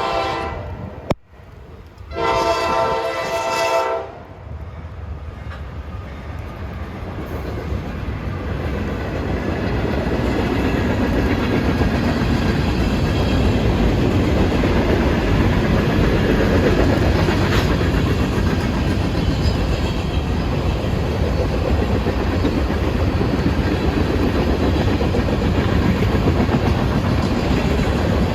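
Freight train locomotive horn sounding a chord, one blast ending just after the start and a second lasting about two seconds, then the train passing with a steady rumble and wheels clattering over rail joints, growing louder over the first several seconds and then holding steady. A sharp click sounds between the horn blasts.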